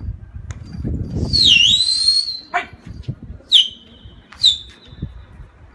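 A person whistling three short whistles, the first dipping in pitch and rising again, the next two sliding down and holding: a pigeon keeper calling his flying pigeons.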